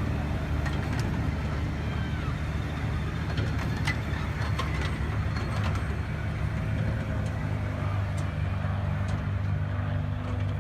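Engine of a 1/3-scale park train running steadily with a low hum, with scattered light clicks over it.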